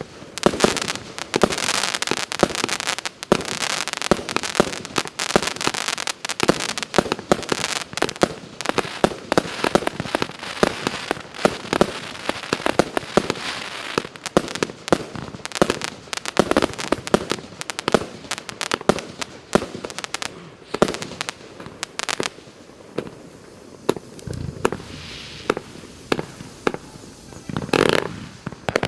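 150-shot consumer fireworks cake firing: rapid launches and bursts, several a second, with crackle. The shots thin out about three quarters of the way through, then come in a short flurry near the end.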